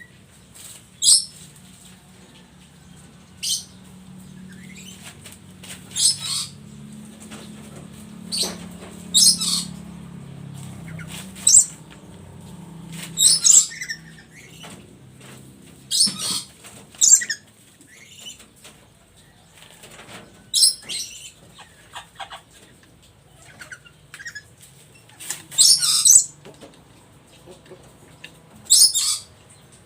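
Black-capped lory giving short, shrill screeches, repeated every second or two, with the loudest pair near the end.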